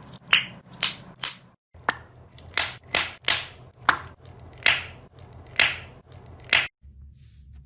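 Slime being pressed and stretched by hand, letting out a run of sharp air-bubble pops and snaps about every half second, with a short break about two seconds in.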